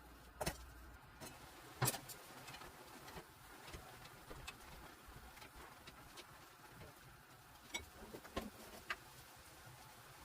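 Scattered light clicks and taps over a faint steady background, the sharpest about half a second and two seconds in and a few more near the end.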